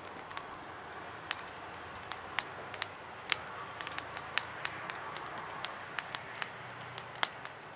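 Wood fire crackling, with irregular sharp pops several times a second over a soft hiss.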